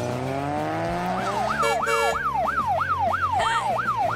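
Police siren yelping, its pitch rising and falling about three times a second, starting about a second in, over a rising engine drone. A short steady blast sounds near the middle.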